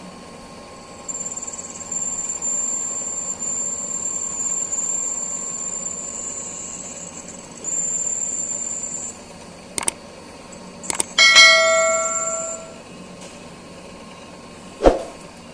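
Milling machine cutting a 1 mm radius on a metal part, the cut giving a high thin squeal for several seconds, with a short break partway. After it come a few sharp clicks, then a loud metallic ring that dies away over about a second and a half, and one more knock near the end.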